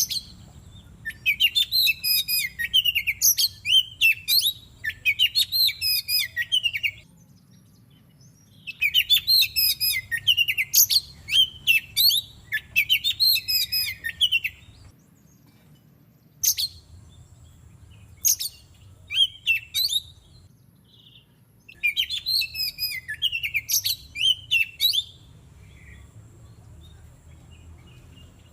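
Oriental magpie-robin singing in dense bursts of rapid, varied whistled phrases, several seconds each, separated by short pauses with a few scattered single notes.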